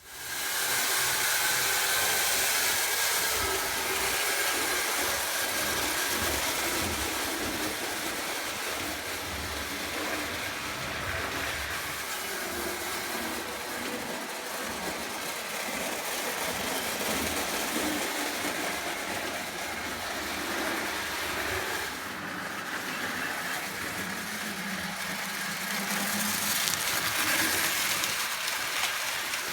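Prewar Lionel 0 gauge toy electric locomotive of the 700 series running on its track: a steady, continuous noisy rattle of motor and wheels.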